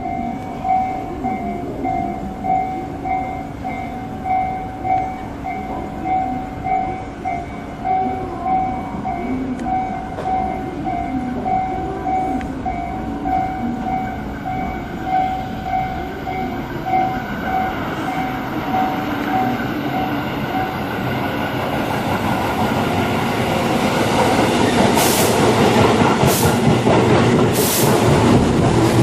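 An electric commuter train approaching and running past, its noise swelling over the last ten seconds, with sharp wheel clacks over rail joints near the end. For most of the first twenty seconds a repeating electronic warning tone pulses steadily, then stops.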